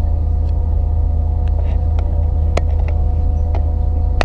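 Hitachi Class 800 train heard from inside the passenger saloon while running: a steady low rumble with a constant droning hum, broken by several short, sharp clicks and knocks, the loudest a little past halfway.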